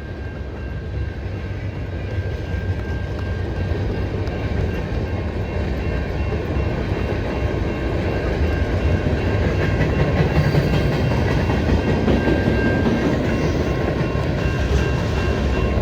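CN freight train passing: a heavy low rumble of locomotives and rolling cars on the rails, growing steadily louder, with a faint steady high tone running alongside.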